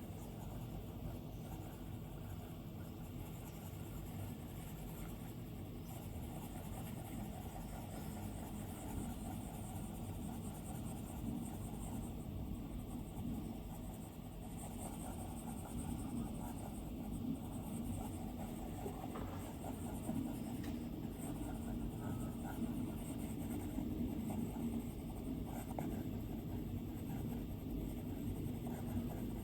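Stylus drawing on an iPad's glass screen: continuous soft scratching and faint taps of the pen tip as lines are drawn, a little louder in the second half.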